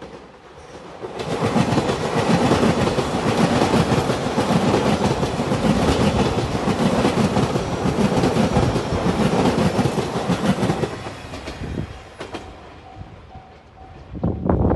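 Express train passing close at speed. The wheels on the rails build up about a second in, run loud with a rapid clatter for about nine seconds, then fade away. A short loud burst follows near the end.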